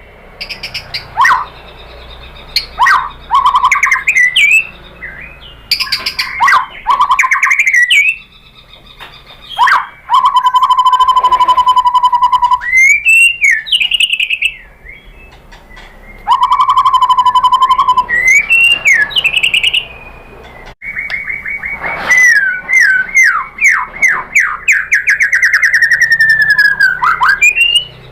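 White-rumped shama (murai batu) singing loudly: a varied song of whistled notes, rising and falling sweeps and long rapid trills, in phrases separated by short pauses.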